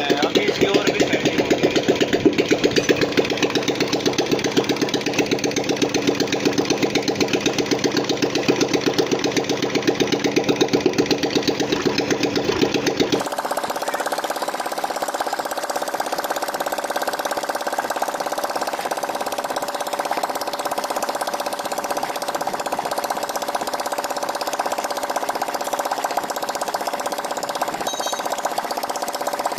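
Royal Enfield Bullet single-cylinder engine running at idle with a quick, even beat, being set up after its magnet coil was changed. About thirteen seconds in the sound changes abruptly to a thinner, steadier hum without the deep thud.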